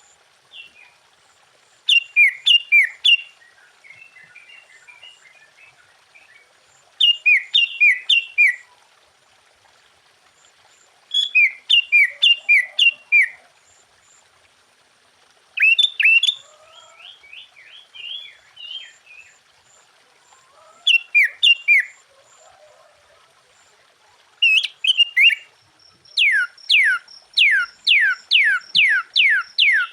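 Sooty-headed bulbul singing: short bursts of four or five falling whistled notes, repeated every four or five seconds, with softer chattering between them. Near the end it breaks into a fast run of repeated falling notes, about three a second.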